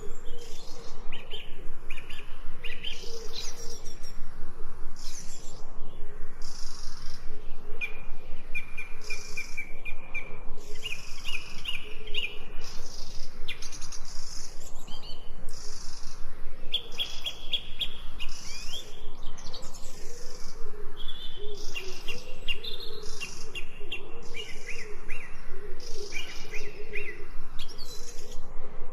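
Several birds singing and chirping over one another, with repeated short trilled phrases.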